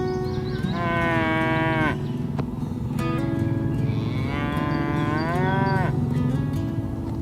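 Cattle mooing: two long moos a few seconds apart, each bending up and then down in pitch.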